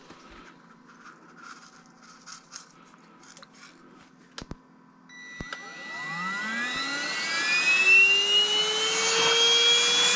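A few faint clicks and knocks as an attachment is fitted. Then, about five seconds in, a Reesino cordless handheld wet/dry vacuum is switched on: its motor whine rises steadily in pitch as it spins up, over a growing rush of air.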